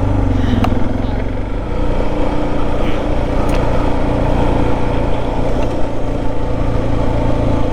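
Motorcycle engine running at a steady pace while riding, a constant low drone under road noise.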